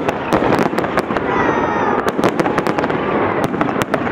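Fireworks display: a rapid, irregular string of sharp bangs and crackling from aerial shells bursting, over a continuous noisy rumble of further launches and reports.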